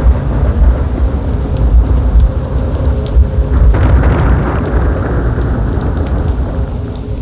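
Heavy rain with thunder rumbling continuously, part of a "demonic rain" Halloween sound effect. The thunder swells about four seconds in, then eases toward the end.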